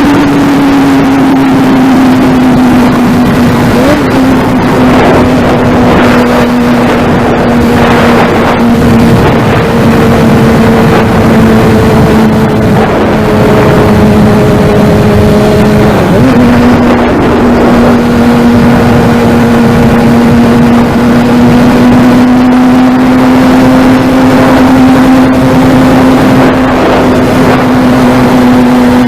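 Inline-four engine of a Kawasaki ZX-6R 636 sport bike running at high, steady revs at speed, with wind rushing over the microphone. The pitch eases slightly at the start, shifts briefly about halfway, then holds steady.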